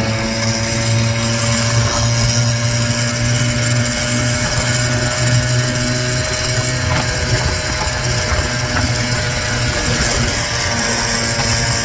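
Small 49cc two-stroke gas scooter engine running steadily under way, its pitch holding nearly constant.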